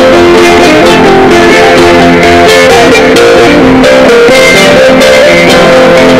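Sape, the Dayak plucked boat lute, playing a continuous melody of quick plucked notes over a held lower drone.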